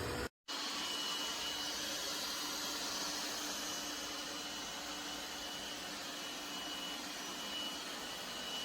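Laresar robot vacuum running: a steady whirring hiss with a faint steady whine. It cuts out for a split second just after the start, then carries on.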